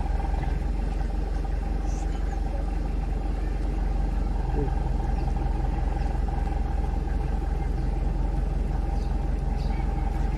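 Safari vehicle's engine running steadily with a low rumble as the vehicle moves along.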